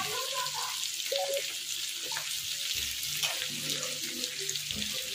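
Potatoes, tomato and green chillies frying in a little oil in a kadai: a steady sizzle with a few small crackles.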